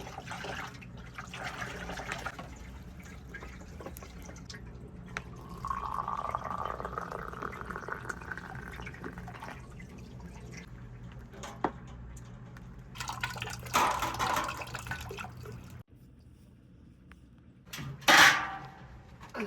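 Liquid being poured and splashing, with a steady pouring sound for about three seconds near the middle. A brief louder rush of noise comes near the end.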